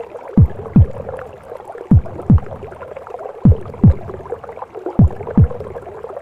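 Slow heartbeat as heard in the womb: a low double thump (lub-dub) repeating about every one and a half seconds, four beats in all, over a steady whooshing, gurgling womb-sound bed.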